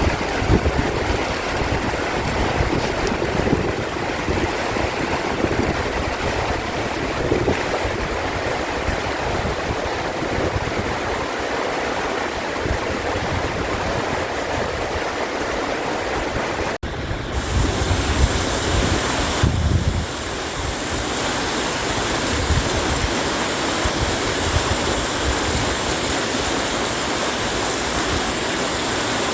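Valley stream rushing steadily over rocks, with wind buffeting the microphone in low thumps. The sound breaks off abruptly about two-thirds of the way through and resumes at once with a slightly different tone.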